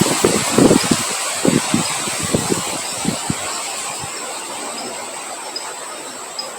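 Wind blowing with a steady hiss. Gusts buffet the microphone with low rumbling thumps in the first few seconds, then die away as the wind eases.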